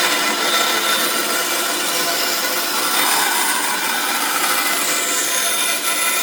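A tool cutting or abrading pallet wood, making a continuous rasping noise with no pauses.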